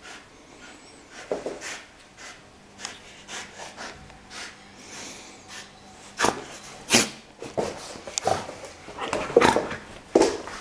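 Golden retriever puppy sniffing and snorting in short, irregular bursts, busier and louder in the second half.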